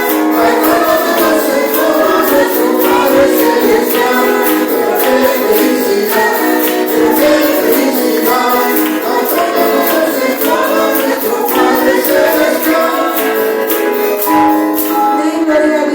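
Congregational worship music: voices singing a praise song together over an even tambourine rhythm.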